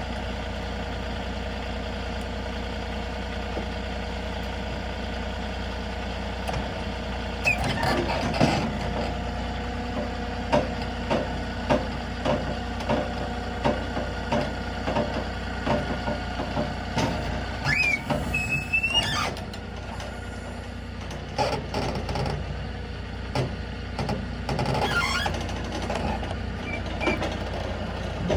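Truck-mounted forklift being taken down off the back of a flatbed truck: an engine running steadily, then from about seven seconds in a string of metal clanks and knocks as it is unhitched and lowered, with a brief high squeal about halfway through and more clatter near the end.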